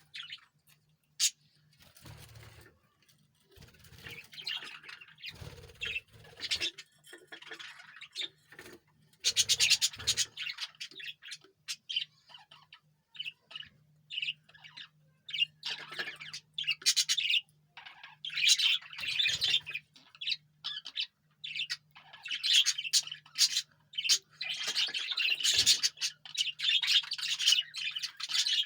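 Pet parrot chirping and squawking in quick irregular runs of short high calls, sparse at first and nearly continuous in the second half. A faint steady low hum lies underneath, and there is one sharp click about a second in.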